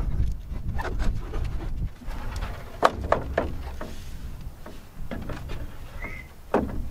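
Wooden boards knocking and rubbing as they are handled, a dozen or so short knocks, over a steady low rumble.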